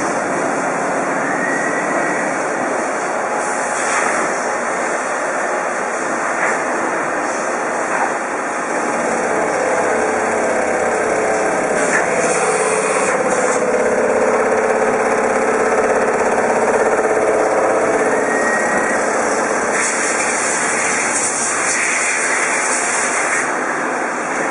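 Metal lathe running in a machine shop: a steady, loud machine noise, with a higher steady whine coming in for about ten seconds in the middle.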